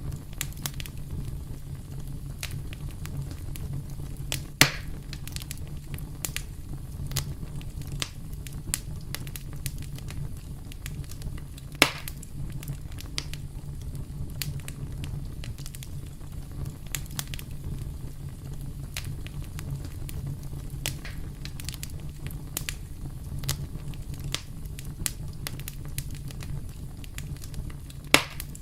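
Wood fire burning with a steady low rumble and frequent crackles, broken by three louder pops.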